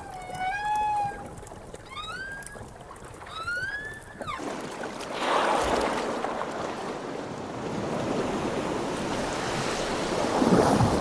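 Humpback whale song: a held moan, then two rising upsweeps about two and three and a half seconds in. From about five seconds in, a louder rushing wash of water or surf takes over.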